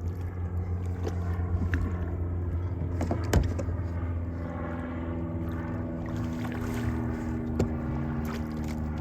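Steady low hum of a boat motor running, its pitch lifting slightly about two-thirds of the way in, with scattered knocks and clicks, the sharpest about a third of the way in.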